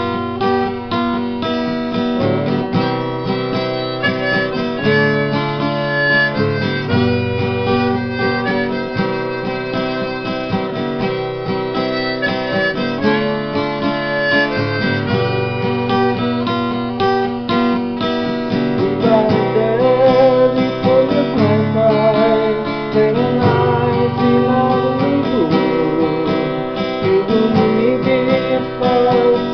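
An instrumental break in a folk song: a harmonica plays the melody over strummed acoustic guitar.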